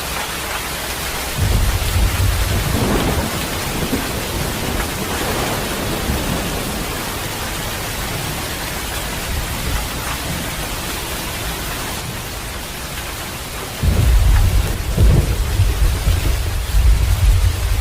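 Steady rain with two rolls of thunder: one starting about a second and a half in and dying away over several seconds, and a louder one breaking in near the end and still rumbling.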